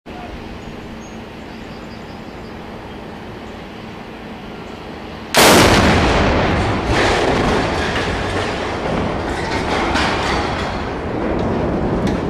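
Demolition of a steel bridge's approach span: a sudden loud blast about five seconds in, followed by several seconds of rumbling and crashing.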